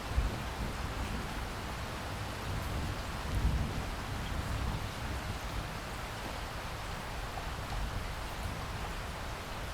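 Steady rainfall, an even hiss of drops, with brief low rumbles just after the start and again about three and a half seconds in.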